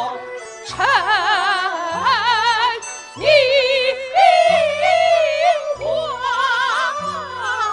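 Kunqu opera singing: a voice in three long sung phrases with wide vibrato, over instrumental accompaniment.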